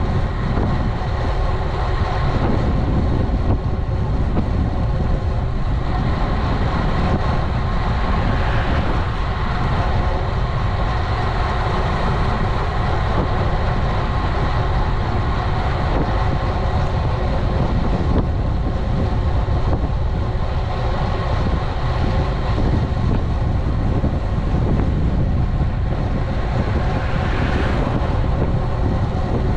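Wind buffeting the microphone of a GoPro Hero 11 action camera on a road bike ridden at speed, with a steady hum of the bike rolling along the road. It runs evenly without a break.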